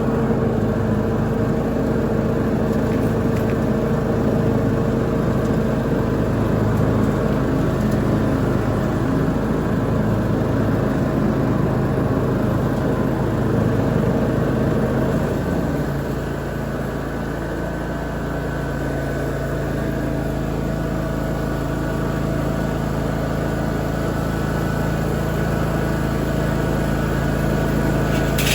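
Lawn mower engine running steadily under load while mowing, its note shifting and dropping slightly in loudness about halfway through.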